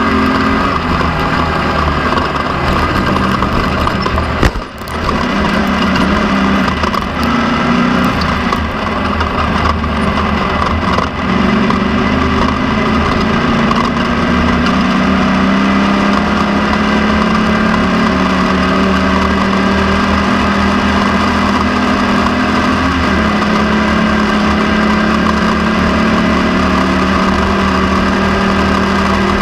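Off-road race car's engine running hard, heard from on board, its pitch shifting up and down with the throttle and then holding fairly steady. A sharp knock about four and a half seconds in makes the sound briefly drop out.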